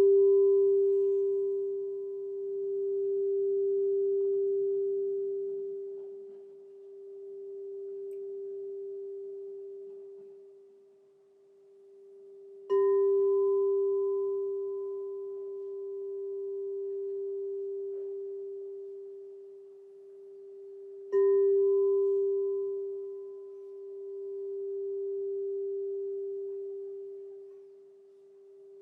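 Crystal singing bowl struck and left ringing in one pure, steady tone that swells and fades in slow waves. It is struck again about 13 seconds in and once more about 21 seconds in, each strike bringing a sharp onset and a fresh ring.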